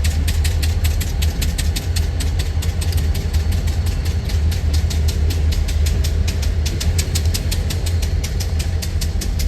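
Steady low engine rumble with a fast, even ticking about five times a second.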